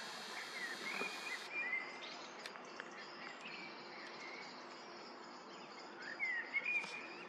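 Birds singing outdoors: short rising and falling chirps, a cluster about a second in and another near the end, over a steady background hiss.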